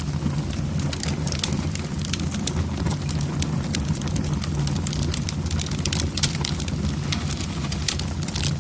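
Logs burning in a fireplace, crackling with many irregular small pops and snaps over a steady low rumble from the fire.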